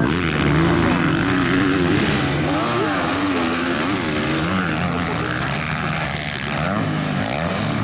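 Several motocross bike engines revving, their pitch climbing and dropping over and over as riders work the throttle and shift gears, with more than one bike heard at once.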